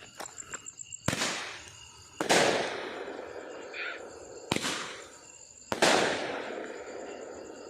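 Consumer fireworks firing: four sharp bangs in two pairs, each trailing off in a fading rush of noise.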